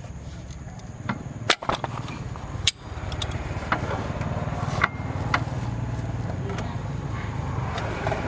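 A low, steady mechanical running sound with a fast pulse, with several sharp knocks and clicks of tools or metal over it, the loudest about one and a half seconds in.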